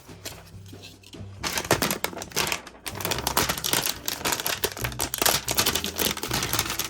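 Plastic toy packaging being handled: rapid crinkling and clicking that starts about a second and a half in and keeps going, over faint background music.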